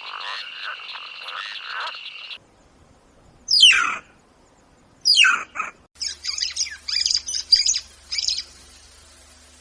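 Frogs croaking in a pulsing chorus with a steady trill, cutting off about two seconds in. Then come two loud calls, each sweeping down in pitch, followed by a run of quick, high bird chirps.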